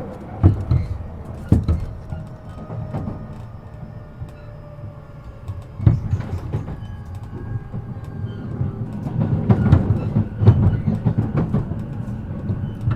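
E233-7000 series electric train running, heard from inside the car: a steady low rumble from the wheels and running gear, with sharp clacks every few seconds as the wheels pass over rail joints.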